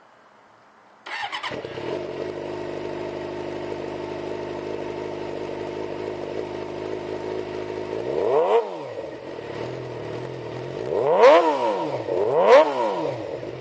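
2006 Suzuki GSX-R600's inline-four engine, fitted with a Jardine GP-style aftermarket exhaust, starting up about a second in and settling into a steady idle. It is then revved three times, once about eight seconds in and twice in quick succession near the end, the last two the loudest.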